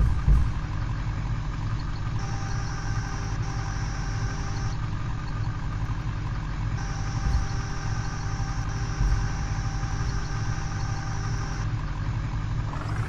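Truck diesel engine idling steadily, with a faint high whine that comes and goes.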